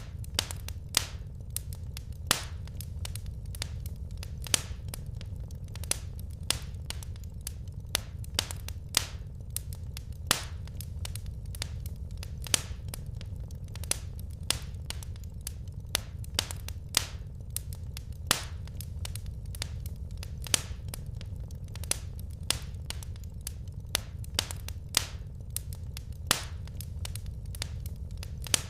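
Wood fire crackling in a fireplace: frequent small irregular crackles, louder pops every second or two, over a steady low rumble.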